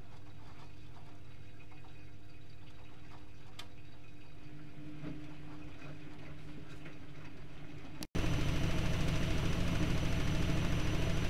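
Privileg Multispar 5110 washing machine running quietly with a steady low hum and light ticks. After a brief break about eight seconds in, it is much louder, a fast steady running sound with a rapid pulse, as the drum spins.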